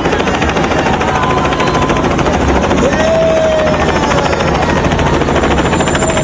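Helicopter rotor beating steadily and rapidly overhead.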